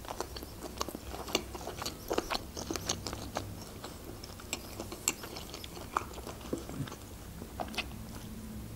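A person chewing a mouthful of noodles close to the microphone: many small, irregular wet mouth clicks and smacks.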